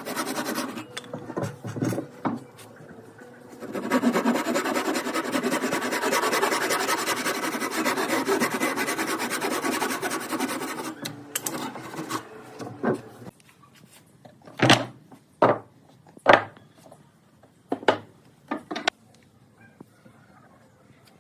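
Hand tool scraping over wood in a steady stretch of rubbing, rasp-like strokes, then several separate sharp knocks on wood near the end.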